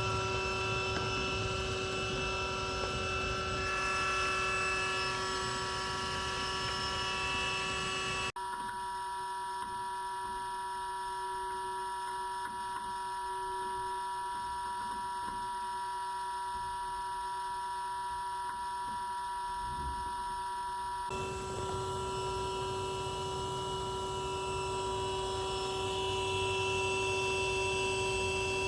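Bee vacuum running steadily, a hum with several steady tones. About eight seconds in the sound cuts abruptly to a thinner version of the same hum heard from inside the bee vac, and about 21 seconds in it cuts back.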